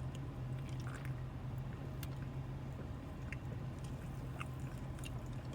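A man drinking soda, with faint swallows and small mouth clicks over a steady low hum.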